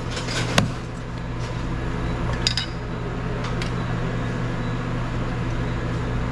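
A few light clinks of utensils against dishes while food is served, over a steady low hum.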